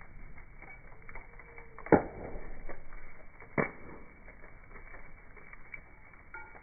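Campfire crackling: burning wood giving scattered small snaps, with one loud pop about two seconds in and another about a second and a half later.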